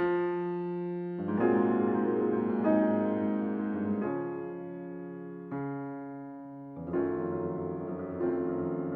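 Background piano music: slow sustained chords, a new chord struck roughly every one to two seconds.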